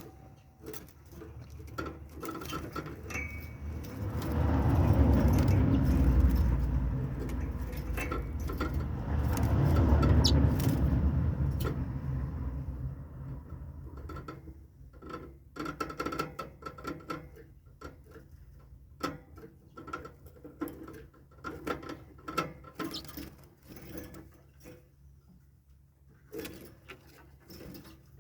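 Arctic redpolls in a cage giving short chirps among many small clicks and rustles. A loud low rumble runs from about 4 to 12 seconds in and then fades.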